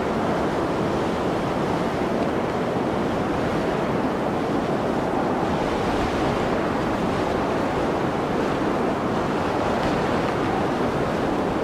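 Blizzard wind blowing as a steady, dense rushing noise, even in level, with no distinct gusts or breaks.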